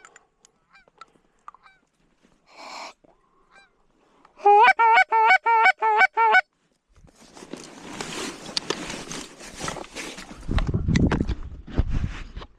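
Goose call blown hard close to the microphone: a quick run of about eight loud, clipped honks, roughly four a second, calling to geese. A few seconds of rustling noise follow.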